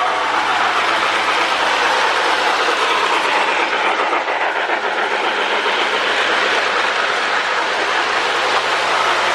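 Lionel 2055 Hudson O-gauge model steam locomotive running around its track: a steady, dense clatter of wheels and motor.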